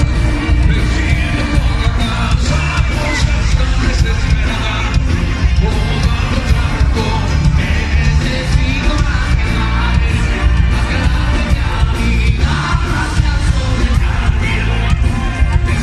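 Live pop-rock concert: a band playing loud, steady music with singing, and crowd yells from the audience.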